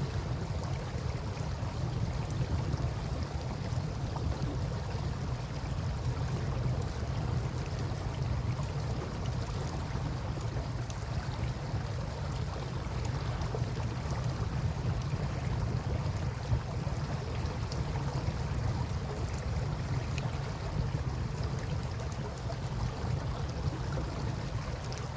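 Campfire crackling with scattered small pops and one sharper pop a little past the middle, over the steady rush of river water and a low rumble.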